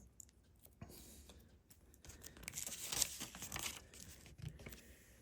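Faint plastic crinkling and rustling, starting about two seconds in and lasting about three seconds, as hands sort through LEGO pieces.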